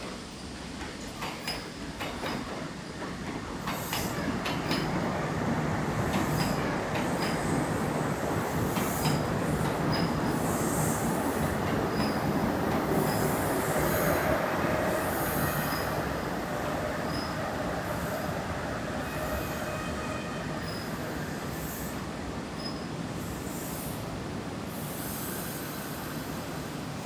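Kintetsu electric commuter train creeping into a terminal platform. Its wheels click over the switches and rail joints in the first few seconds. Then comes a steady running rumble with wheel squeal from the curve, loudest about halfway through and easing off as the train slows.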